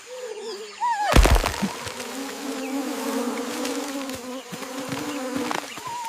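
Cartoon sound effects: a short squeaky cry and a sharp hit about a second in, then a steady buzzing drone for about four seconds that fades out near the end.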